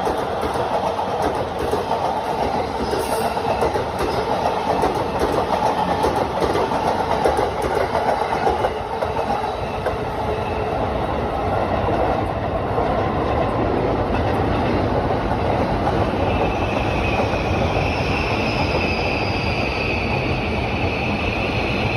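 KATO model trains running along the track, their wheels rattling steadily over the rail joints. A steady high whine joins in about two-thirds of the way through.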